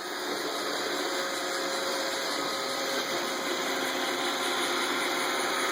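iRobot Roomba robot vacuum running, a steady whir of its vacuum motor and brushes with a faint steady hum, growing a little louder in the first half-second.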